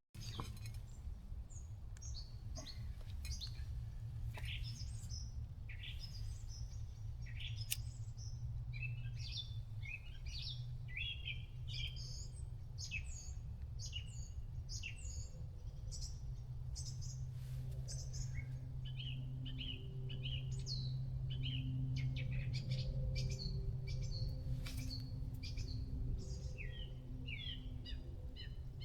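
Wild songbirds chirping and singing over and over in short, quick phrases, over a steady low rumble.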